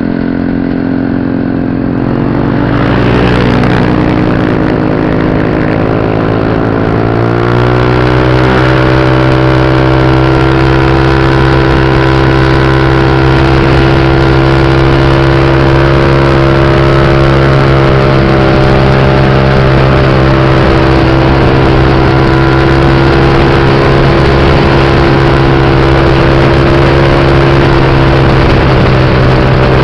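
Motorcycle engine accelerating for a few seconds, its pitch rising, then running at a steady speed.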